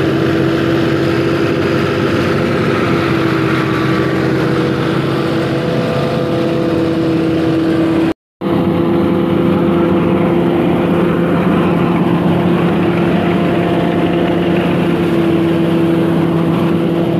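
Fiat 480 tractor's three-cylinder diesel engine running steadily under load, driving a paddy thresher through its PTO, the thresher adding a steady hum over the engine. The sound cuts out completely for a split second about eight seconds in.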